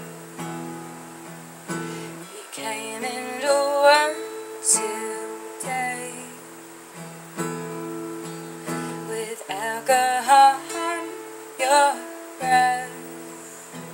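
Acoustic guitar strumming chords, the chords changing every second or so.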